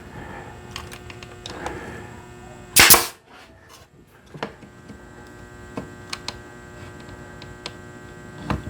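An 18-gauge brad nailer firing once, a sharp shot about three seconds in, with a few light handling clicks. A steady hum runs underneath.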